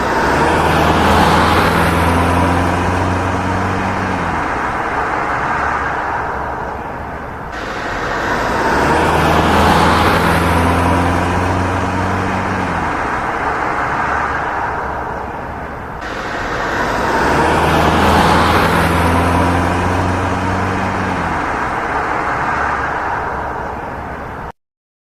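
A car driving past, its engine hum and tyre noise swelling and then fading. The same pass-by plays three times in a row, and the sound cuts off suddenly near the end.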